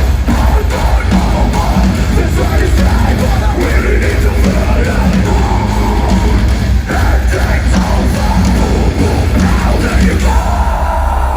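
Electronic metalcore band playing live at high volume: a heavy low-end beat and guitars under shouted and sung vocals.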